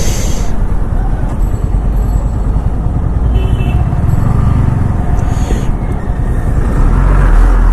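Motorcycle riding through traffic, heard through a GoPro camera's microphone: a heavy, steady low rumble of wind buffeting the mic over engine and traffic noise.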